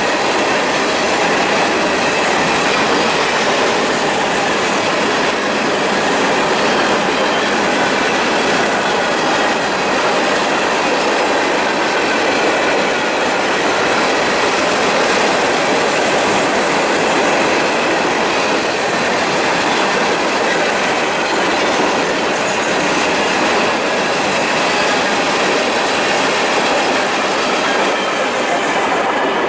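Long freight train rolling past at speed, its cars' wheels clattering steadily over the rails.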